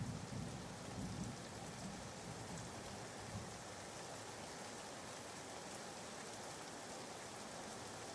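Recorded rain ambience playing softly and steadily as a background white-noise bed. A low rumble right at the start fades away over the first few seconds.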